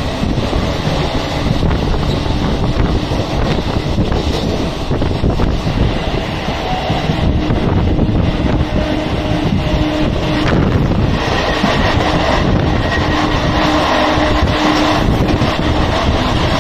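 Electric suburban local train running at speed, heard at an open window: a steady rumble of wheels on the track with wind buffeting the microphone. A faint steady hum comes and goes partway through.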